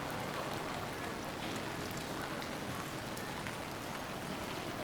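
Steady rain falling on street surfaces, a continuous hiss with scattered drops ticking.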